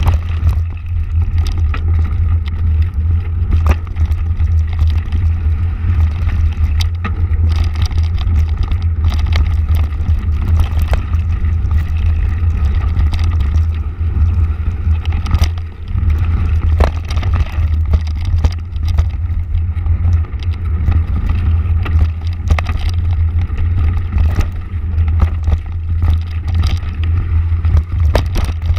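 Motorcycle running on the move, a steady low rumble with frequent short knocks and rattles over it.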